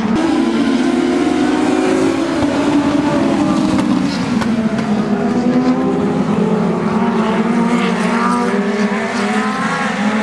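Several dwarf race cars, motorcycle-engined, running together at racing speed. Their engine notes overlap and slowly rise and fall in pitch as they work around the track.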